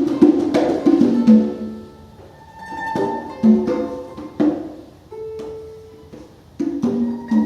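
Free-improvised live music of conga hits and plucked string notes, with a flurry of strikes at the start, sparser ringing notes through the middle and a briefly held note about five seconds in.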